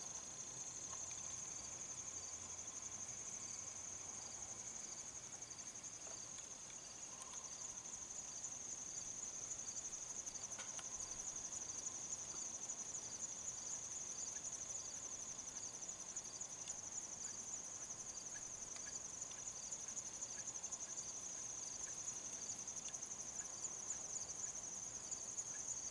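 Insects calling steadily outdoors: a continuous high, rapidly pulsing trill, with a fainter chirp repeating a little faster than once a second beneath it.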